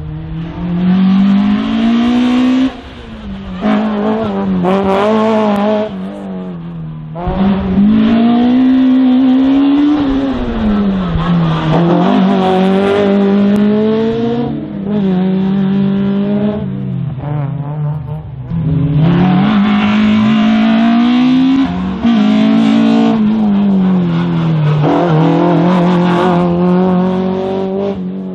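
Race car engine at high revs, its pitch climbing and falling again and again as it accelerates, lifts off and shifts through the tight turns of an autoslalom course. Brief drops in level come every few seconds between the bursts of throttle.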